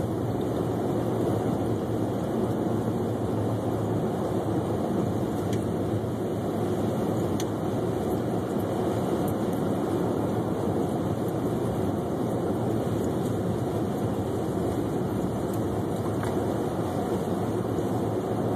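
Steady road and engine noise of a car driving on a snow-covered road, heard from inside the cabin.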